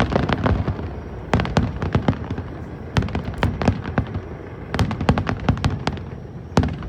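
Aerial fireworks going off: clusters of sharp cracks and bangs in quick succession, several volleys a second or so apart, over a continuous low rumble of the shells bursting.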